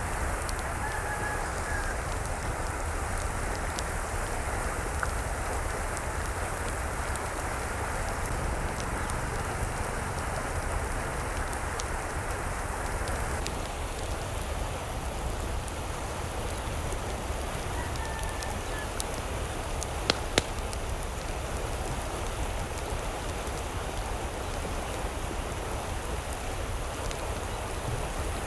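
Steady hiss of falling or running water, an even wash with no rhythm. A faint short chirp is heard about a second in and again about 18 s in, and two sharp ticks come about 20 s in.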